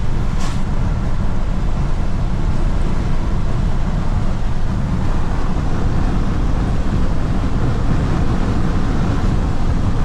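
Steady road and engine noise heard inside a moving Volkswagen Amarok pickup, a heavy low rumble throughout, with a short click about half a second in.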